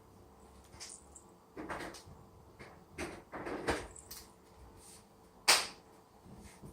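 A Persian cat playing with a toy: irregular soft knocks and scuffs, with one sharp, louder knock about five and a half seconds in.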